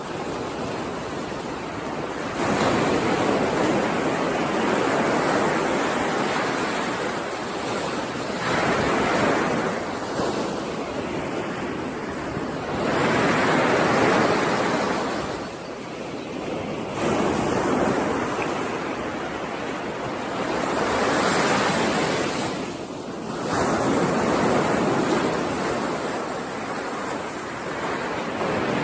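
Ocean waves breaking and washing up a shore, swelling and falling back every few seconds, with some wind.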